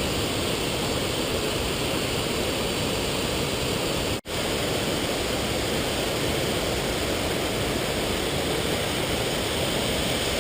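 A large waterfall pouring, a steady loud rush of water that breaks off for an instant about four seconds in.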